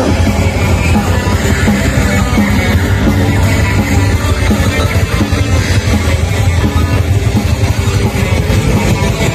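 A metal band playing live: guitars and drums, loud and unbroken.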